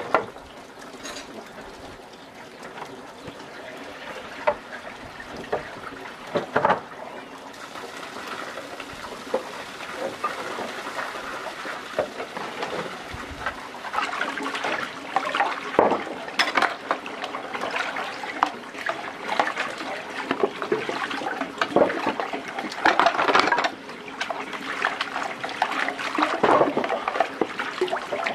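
Water splashing and pouring, with scattered knocks and clatter that grow busier and louder about halfway through.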